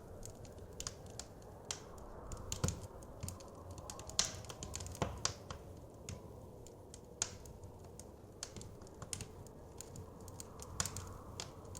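Wood fire crackling in a fireplace: irregular sharp pops and snaps, several a second, a few louder ones standing out, over a steady low rumble.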